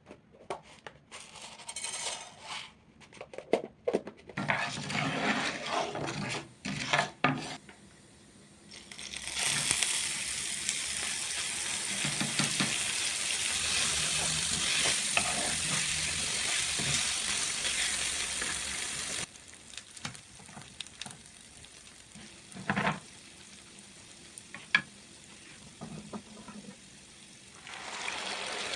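Clattering and rustling of objects being handled. About nine seconds in, a steady loud hiss starts, runs for about ten seconds and cuts off suddenly, followed by quieter scattered clicks and taps.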